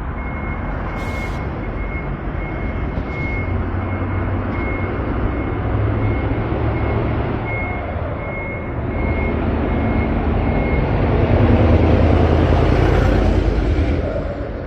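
A vehicle engine running, with a high beep repeating about twice a second that stops about eleven seconds in. The engine grows louder for a few seconds near the end, then eases off.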